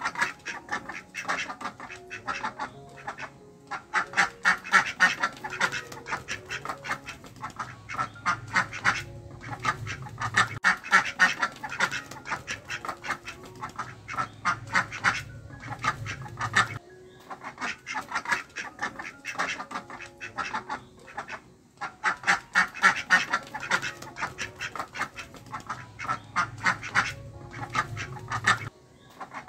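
Ducks quacking in rapid, continuous chatter, like a flock, over a low hum that cuts off and restarts a few times.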